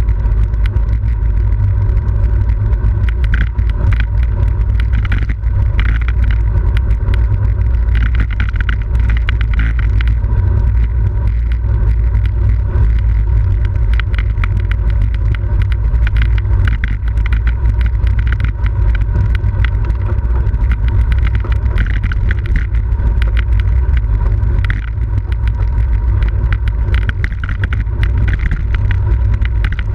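Steady wind buffeting a camera microphone on a racing bicycle at speed, a heavy low rumble mixed with road and tyre noise and frequent small crackles and rattles.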